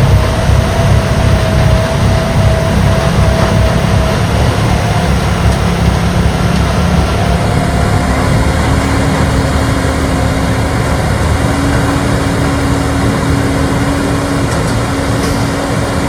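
Larue D60 snow blower on a Doosan DL420 wheel loader working a snow windrow: a loud, steady engine rumble with a whine that shifts to a lower note about halfway through.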